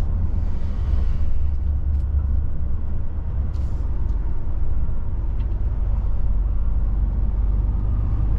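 Steady low rumble of a DAF truck's diesel engine and road noise under way, heard from inside the cab, with a couple of faint clicks.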